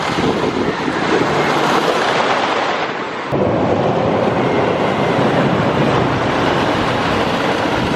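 Thunder Run's wooden roller coaster train rumbling along its track at speed, with wind buffeting the microphone; the low rumble turns heavier suddenly about three seconds in.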